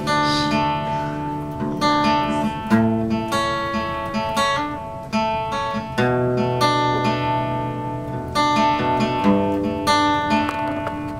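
Acoustic guitar playing an instrumental intro, strummed and picked chords changing every couple of seconds.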